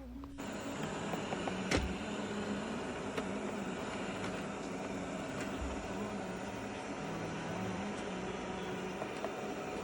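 Shark EZ robot vacuum starting up about half a second in and running steadily, its suction motor and brush roll giving a whirring hum that wavers slightly in pitch. There is a sharp click just under two seconds in.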